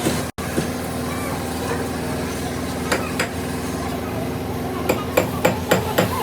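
Hammer blows: two separate strikes about three seconds in, then a quick, regular run of blows at about four a second near the end. A steady mechanical hum runs underneath.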